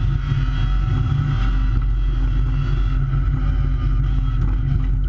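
Rally car engine running steadily under way, heard from inside the cabin.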